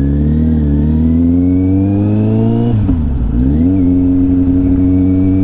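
Kawasaki Z800's inline-four engine pulling under acceleration. Its note rises steadily for nearly three seconds, drops sharply, then climbs again and holds steady.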